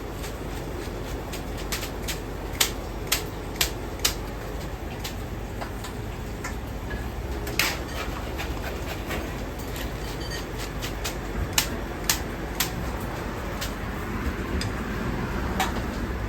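Commercial ramen kitchen at work: a steady low rumble with sharp clacks and knocks of utensils and cookware over it, several coming in quick runs about half a second apart.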